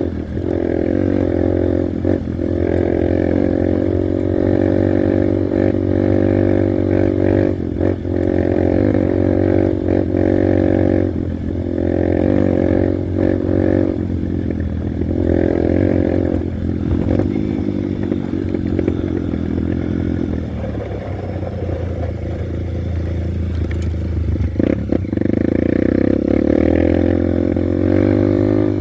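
Honda Bros 150 motorcycle's single-cylinder four-stroke engine running under way, its pitch rising and falling with the throttle, with scattered knocks and rattles.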